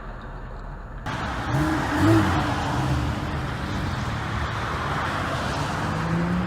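Car driving in traffic: steady road and tyre noise with engine hum. About a second in the sound switches abruptly from a muffled recording to a clearer, louder one, with a louder swell around two seconds in.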